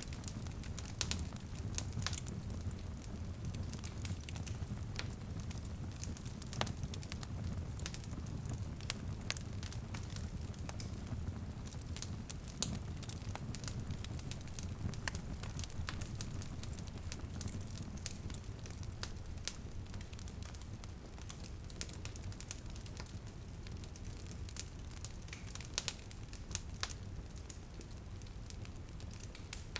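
Wood fire crackling with irregular sharp pops and snaps over a low steady rumble, with light drizzle pattering in the background.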